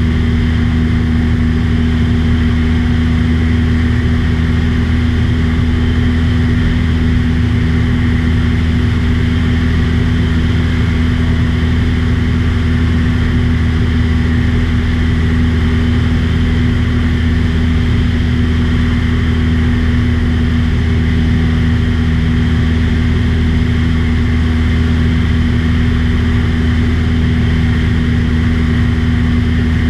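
Light aircraft's piston engine and propeller droning at a constant steady pitch, a loud unvarying hum in flight.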